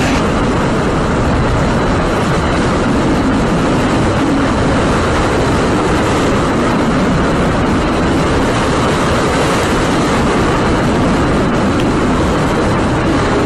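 Hurricane wind blowing hard: a loud, steady rush of noise with no break.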